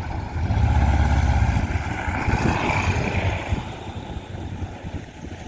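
A vehicle engine running, a low rumble with a rapid pulse, fading down over the last two seconds.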